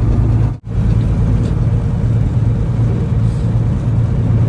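Semi-truck driving, heard from inside the cab: a steady low engine and road drone. The sound cuts out completely for a moment about half a second in.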